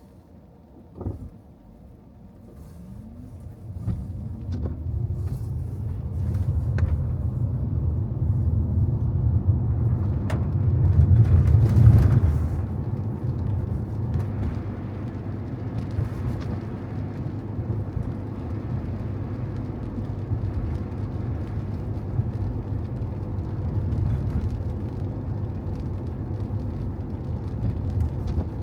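Car driving on wet city streets: a low, steady rumble of engine and tyres. It starts from near quiet with a single knock about a second in, rises in pitch as the car pulls away, and is loudest a little under halfway through before settling to an even cruise.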